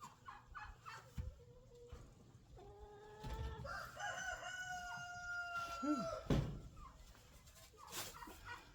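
A rooster crows once, a long call of about three and a half seconds that rises and then holds before dropping off, with short clucks from the flock before it. A sharp knock comes just as the crow ends, and another comes near the end.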